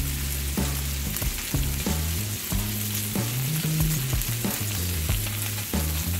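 Chopped bacon and freshly added chorizo sizzling steadily on a hot flat-top gas griddle, with background music carrying a bass line underneath.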